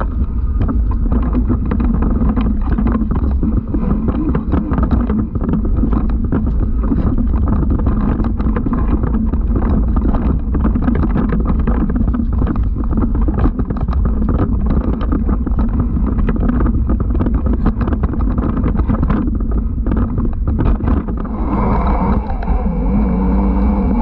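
A dirt bike riding over rough trail, heard through a bike- or rider-mounted camera: a constant low rumble with rapid rattling knocks. A steady whining tone joins about two seconds before the end.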